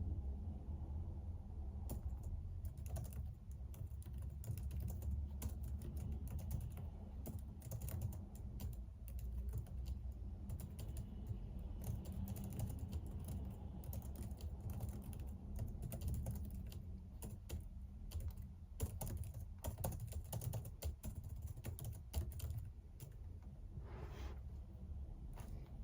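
Typing on a computer keyboard: rapid, uneven runs of key clicks with short pauses, thinning out near the end, over a low steady hum.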